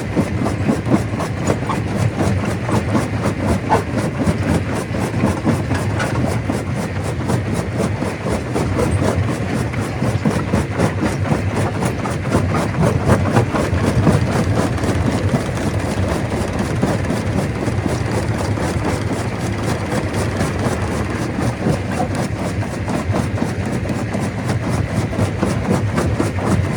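Stone crusher running, with a dense, continuous clatter of rock being broken over the steady drone of its engine.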